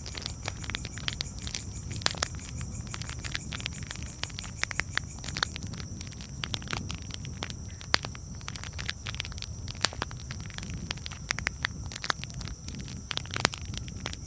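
Campfire crackling: irregular sharp snaps and pops, a few of them louder, over a steady low rumble.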